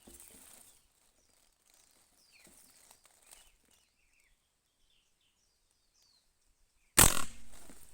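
Small birds chirping faintly in short gliding calls, then a single loud gunshot about seven seconds in that rings out and fades over about a second.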